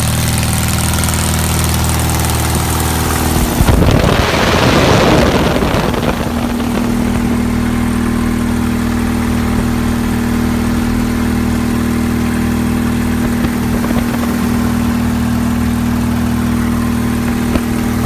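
Engine running on its first run of the year after winter, with a loud surge about four seconds in that lasts about two seconds, then a steady hum.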